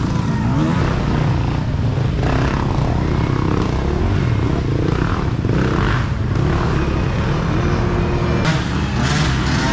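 Off-road race dirt bike engines running loudly and steadily, with some rise and fall in engine pitch.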